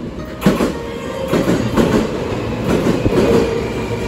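Hankyu electric train pulling into the platform and running past close by, its wheels clacking over the rail joints in a series of sharp clicks that begin about half a second in.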